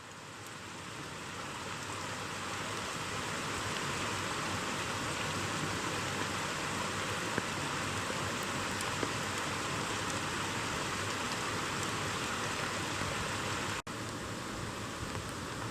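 Steady rain falling in a downpour, an even hiss that fades in over the first few seconds, with a brief dropout near the end.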